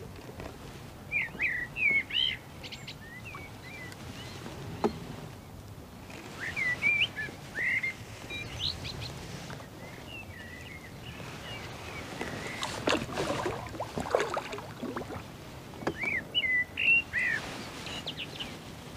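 A small songbird singing short chirping phrases, four bursts a few seconds apart, over a steady low outdoor background.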